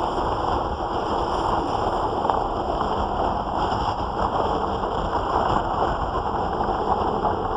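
Steady noise of squall-strength wind on the microphone with rushing water, with no single sound standing out.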